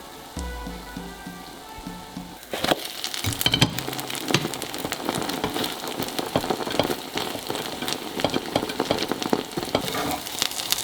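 Background music at first, then about two and a half seconds in, an egg tortilla starts sizzling and crackling as it fries in olive oil in a pan, with many small pops.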